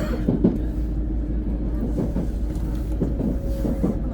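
Shinkansen train running noise: a steady low rumble with a few light knocks. From about halfway through, a faint whine slides slowly down in pitch as the train slows.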